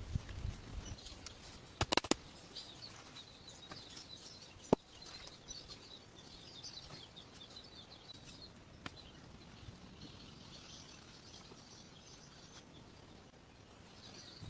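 Small birds chirping over a faint outdoor background, with a loud double knock about two seconds in and single sharp clicks later.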